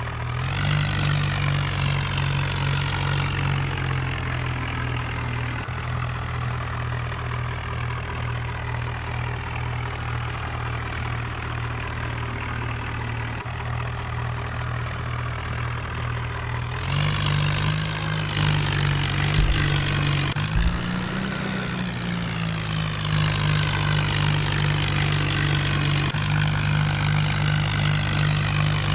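Tractor engine running steadily, louder and harsher for the first few seconds and again from about two-thirds of the way through, with a brief rise and fall in engine speed and a couple of low knocks in between.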